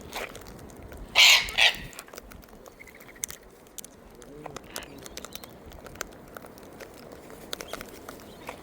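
Wild birds at a feeding: two loud, harsh bursts about a second in, the first longer than the second, with small clicks and taps scattered throughout.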